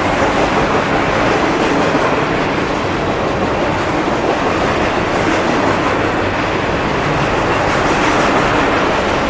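Freight train passing close by: a loud, steady rolling noise of railcar wheels on the rails, with a faint clickety-clack of wheels over rail joints.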